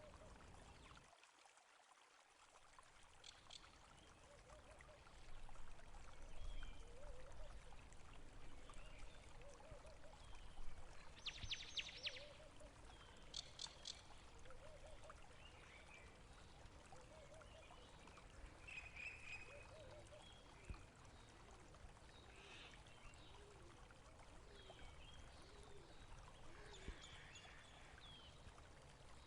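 Faint running water from a stream, trickling steadily, with scattered short high chirps over it.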